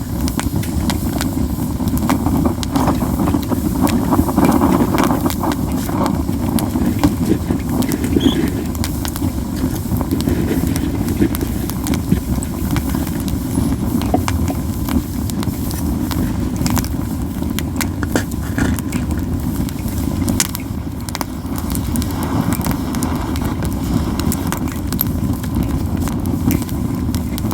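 Japanese yew (ichii) wood burning in a campfire, crackling with scattered sharp pops over a steady low rumble.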